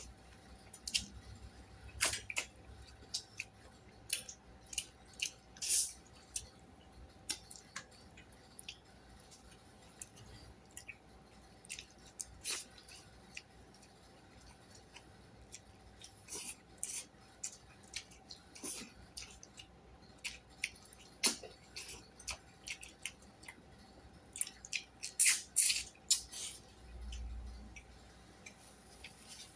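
Close-up eating sounds: irregular clicks and smacks of chewing, with utensils tapping a plate, under a faint steady hum.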